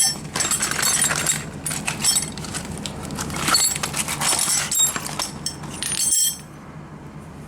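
Loose metal hand tools clinking and rattling as they are handled in an old tool bag, a dense irregular jangle that stops about six seconds in.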